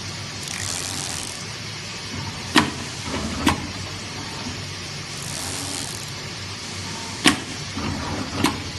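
AOKE DCZ76 flatbed digital cutting machine running: a steady machine noise with swells of hiss as the head moves, and four sharp clicks, two close together about a third of the way in and two more near the end.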